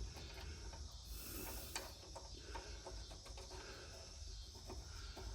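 Faint scattered clicks and light rustling from hand work on mower parts, over a low steady hum.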